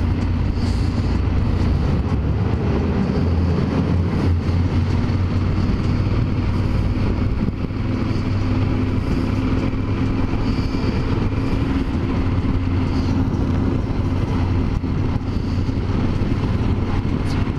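Yamaha Super Ténéré 1200's parallel-twin engine running at a steady cruise, with wind and road noise on a bike-mounted camera.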